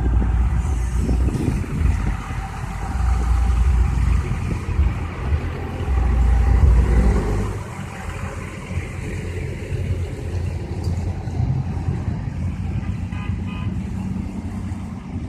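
Trucks in a convoy running past, a heavy low rumble that is loudest in the first half and eases off about halfway through, with brief horn toots near the end.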